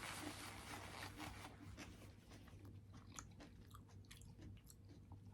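Faint close-up chewing of food, with soft crunches and small mouth clicks scattered through it.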